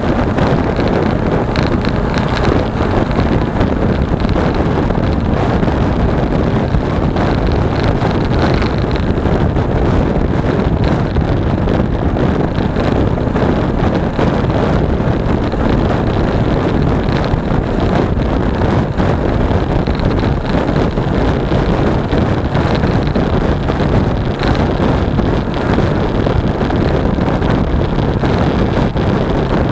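Steady wind rush buffeting an action camera's microphone on a moving motorcycle, with a Suzuki V-Strom 250's engine running at a steady speed underneath.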